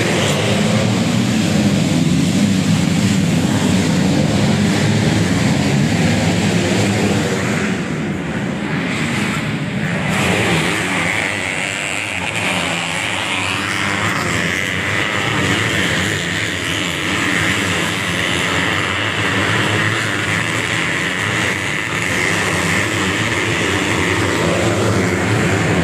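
Modified underbone motorcycles racing on a dirt motocross track, their engines revving hard in a continuous din that eases slightly about eight seconds in and builds again.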